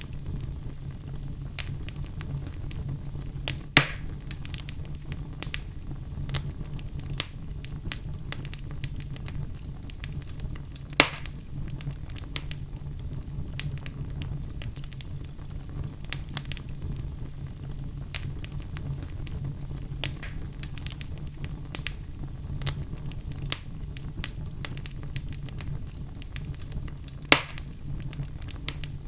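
Wood fire burning in a fireplace: a steady low rumble with frequent small crackles and three louder sharp pops, about 4, 11 and 27 seconds in.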